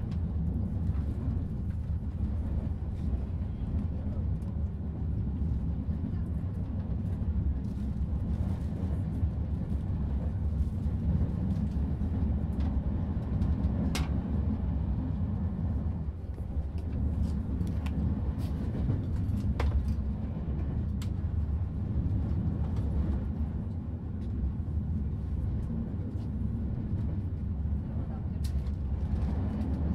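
Passenger train car running along the track, heard from inside the car: a steady low rumble of wheels on rails, with a few sharp clicks, the loudest about halfway through.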